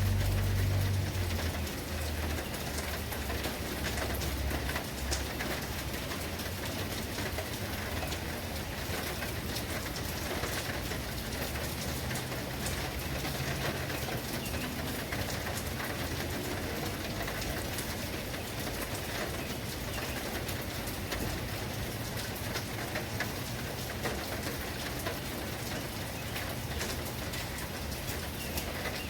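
Steady rainfall: a dense, even patter of drops hitting surfaces. A low rumble fades out in the first couple of seconds.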